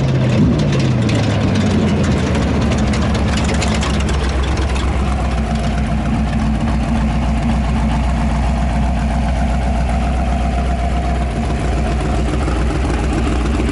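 International Race Cars AWD Class 1 off-road race car's engine, its revs falling in the first second, then idling steadily.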